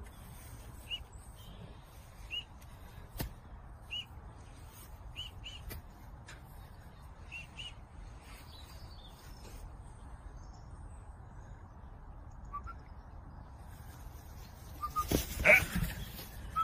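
Short high bird chirps, single or in pairs, every second or two over a low steady background noise, then a few loud sudden sounds near the end.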